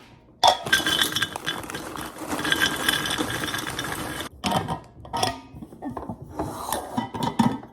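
Groceries and containers being handled and put away: a few seconds of continuous clattering, then scattered clicks and knocks.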